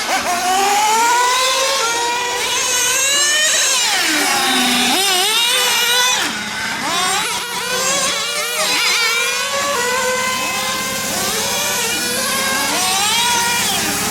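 Several small nitro engines of 1/8-scale RC cars running on a circuit, their high-pitched whine repeatedly rising and falling as the cars accelerate and lift off through the corners, with more than one engine heard at once.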